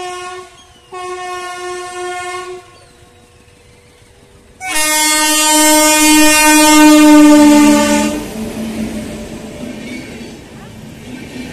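Indian Railways locomotive horn: a short blast, a longer blast, then a much louder long blast that drops slightly in pitch near its end as the train passes. The rumble of the running train follows.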